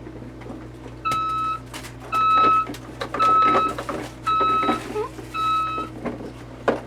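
Toy garbage truck's electronic beeper sounding five steady, even beeps about a second apart, like a truck's reversing alarm, with light clatter between the beeps.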